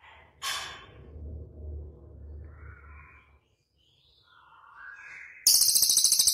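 Small songbirds calling: a sharp high note about half a second in, short whistled chirps in the middle, then a loud, very fast, high rattling trill near the end. A low rumble runs under the first three seconds.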